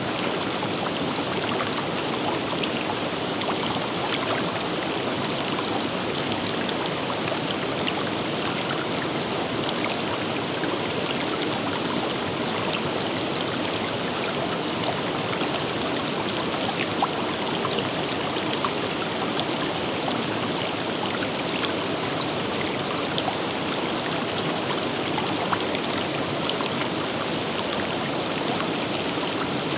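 A forest river running steadily, an even rush of flowing water with small splashes ticking through it now and then.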